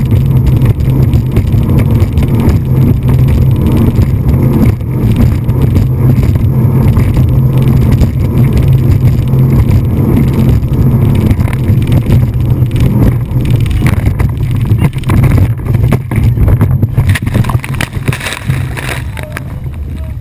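Motorboat engine running with a steady low drone, mixed with rushing water noise. In the second half comes a string of sharp knocks and slaps, typical of the hull slamming into waves.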